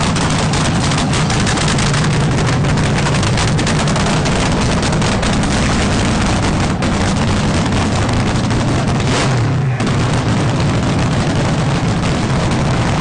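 Drag-racing engine running hard at high revs, loud and close, with a rapid crackle throughout and a brief drop about nine and a half seconds in.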